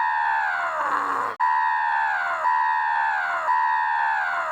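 A loud, high electronic-sounding tone, held for about a second and a half with its pitch sliding down, then breaking into short repeated notes about twice a second, each dipping in pitch at its end. It is a siren-like outro sound effect.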